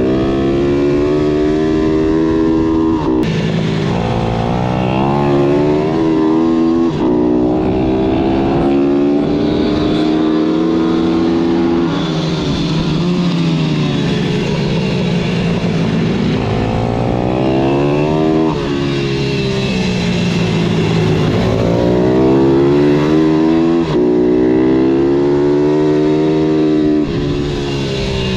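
Pitbike engine running hard around a kart track. Its pitch climbs under throttle and falls away again about half a dozen times, dropping sharply at some points and dipping slowly through a corner at another.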